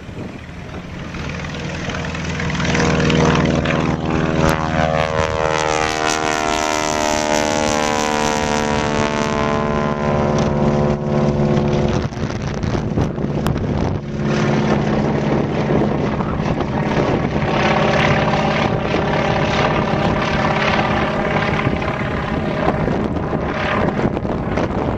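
Stearman biplane's radial engine and propeller running loud, its tone sliding down in pitch over several seconds, then holding fairly steady.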